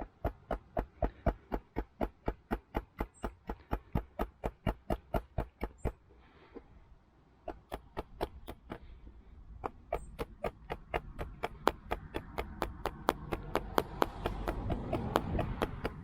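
Hammer driving nails into wood: a fast, even run of strikes, about three or four a second, a pause of a second or so about six seconds in, then another run of strikes. A rising rushing noise builds under the last few strikes.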